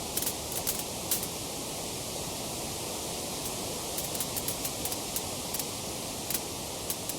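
Wood fire crackling: a steady hiss of burning with sharp pops of the wood, a quick cluster in the first second and more scattered pops from about four seconds on.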